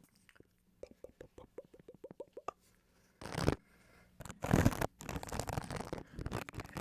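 Close-miked ASMR sounds: a quick run of about a dozen small wet clicks, about seven a second, then louder scratching and rubbing directly on the microphone that carries on to the end.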